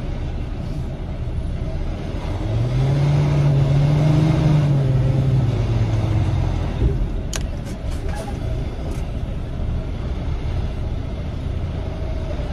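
Semi-truck diesel engine running, heard from inside the cab. About two and a half seconds in it revs up, holds for a couple of seconds, then eases back down. A couple of sharp clicks follow about seven seconds in.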